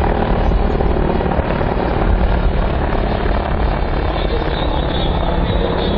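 A helicopter in flight, its rotor and engine running with a loud, steady noise that is strongest in the low end.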